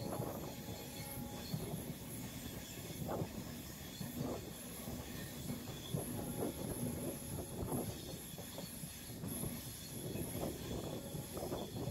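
Rameswaram–Bhubaneswar express train running, its wheels rumbling and clattering over the rails with irregular knocks, while a thin high whine comes and goes.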